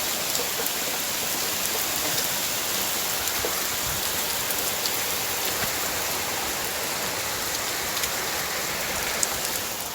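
Fairly heavy rain falling steadily, a dense even hiss with scattered individual drop ticks.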